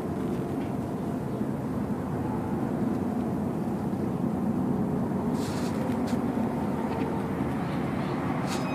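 Steady low rumble of idling or passing vehicle engines, with a short rustle about five seconds in and a click near the end.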